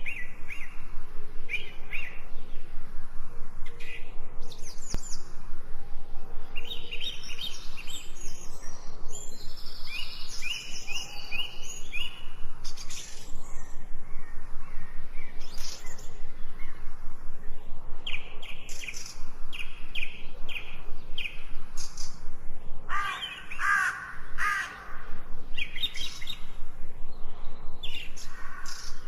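Forest birds singing: many short high chirps and trills overlapping throughout, with a few lower-pitched calls about 23 to 25 seconds in.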